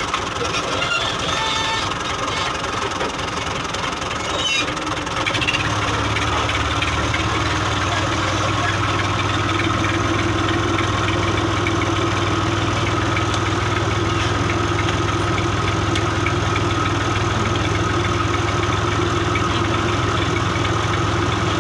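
Massey Ferguson 240 tractor's three-cylinder diesel engine running steadily. About five seconds in, a deeper steady hum joins it and holds.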